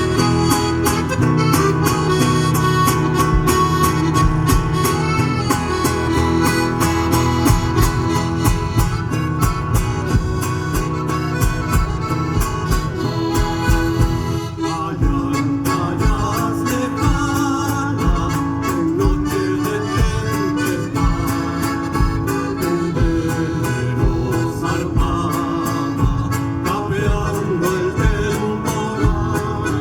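Chilean folk music from Chiloé: a reedy accordion-like melody over strummed guitar, with a steady beat.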